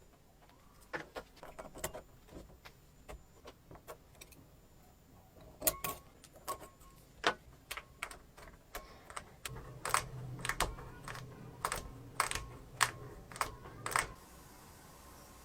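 Small metal parts clicking and clinking together as they are handled, irregular and in quick clusters, stopping shortly before the end.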